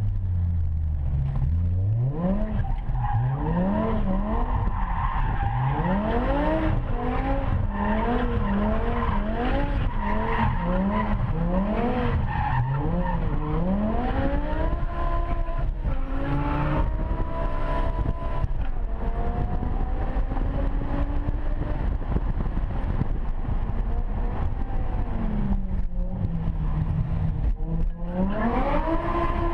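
BMW E60 M5's V10 engine heard from inside the cabin, revving up and dropping back in quick repeated pulses through the first half as the car is slid through turns, then holding high revs, falling away, and climbing again near the end.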